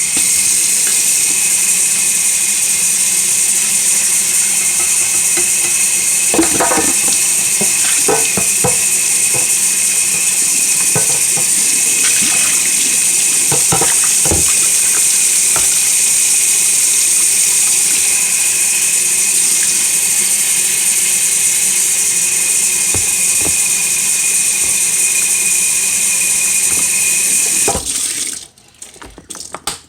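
Kitchen tap running hard with a steady hiss and a faint whistle, with a few knocks of things handled in the sink. The water shuts off suddenly near the end, leaving a few short clatters.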